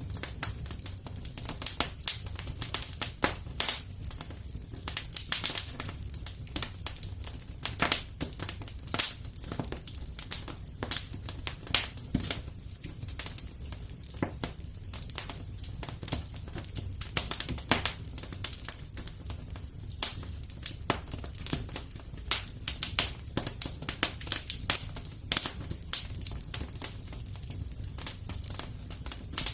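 Wood fire crackling, with irregular sharp pops several times a second over a steady low rumble of the flames.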